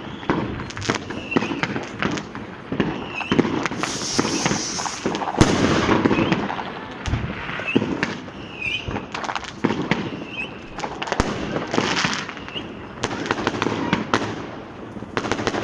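Fireworks and firecrackers going off all around in dense, irregular bangs and crackles, with several short rising whistles from rockets and a hissing burst a few seconds in.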